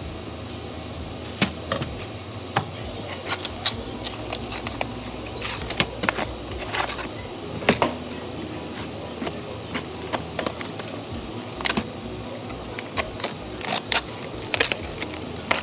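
Stiff plastic being handled: irregular sharp clicks and crackles of plastic wrap and a clear plastic clamshell container, over steady background noise.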